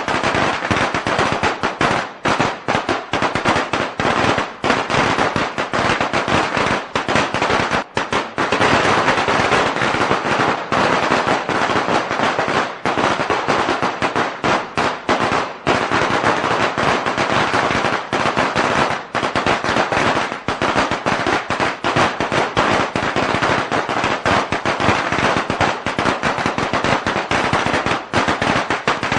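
A long string of firecrackers going off: a dense, unbroken rattle of sharp bangs with only brief dips.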